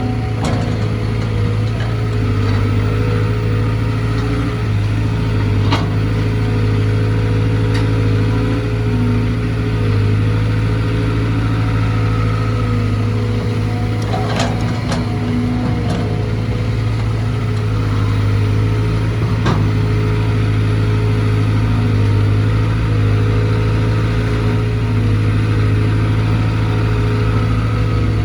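Cat C4.4 four-cylinder diesel engine of a CAT 320GC excavator running at a steady speed. There are a few short clicks or knocks over it.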